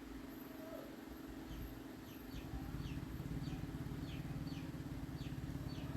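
A steady low mechanical hum with a fast flutter, a little louder from about two seconds in, with short high falling chirps repeating about twice a second over it.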